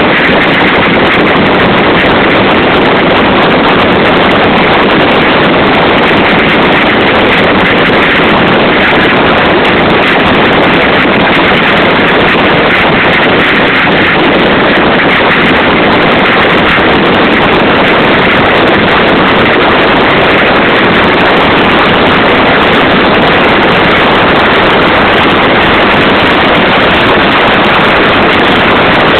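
Loud, steady rushing noise of a boat under way, from its engine and water, unchanging throughout.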